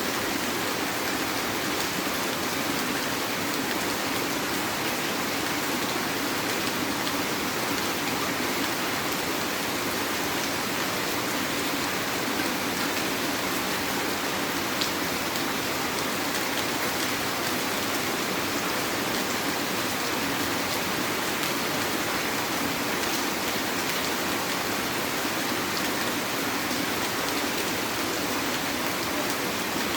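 Heavy rain falling steadily, a dense even patter with a few louder single drops now and then.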